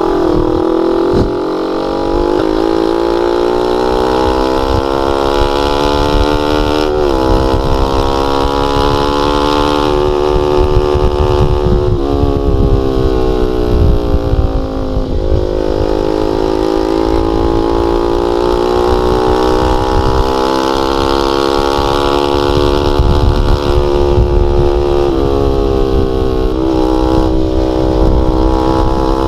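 Honda Sonic 150R's single-cylinder four-stroke engine running through a CLD X Monster aftermarket exhaust with a half baffle. The exhaust note climbs and falls in pitch in long slow sweeps, dropping suddenly about seven seconds in and again about twelve seconds in.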